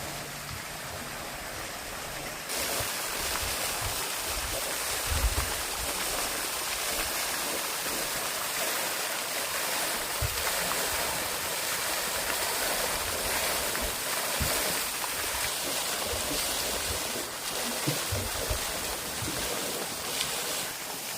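Steady rush of flowing water, stepping up in level about two and a half seconds in, with a few short low thumps.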